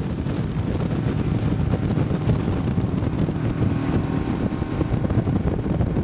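Boat's motor running steadily with wind buffeting the microphone, a dense low rumble.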